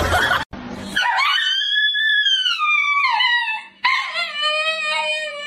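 A small husky-type dog howling twice: a first high call that slides down in pitch, then a longer, steadier, lower howl. In the first second, a short burst of noise comes before the howls.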